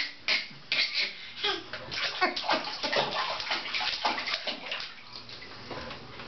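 A young child making a funny noise with his mouth: a quick run of short, noisy, hissing bursts that tail off about five seconds in.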